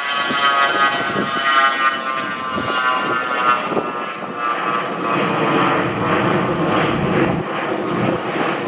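An aircraft passing close by, its whining engine tone sliding slowly down in pitch over the first few seconds under a steady rush of engine noise.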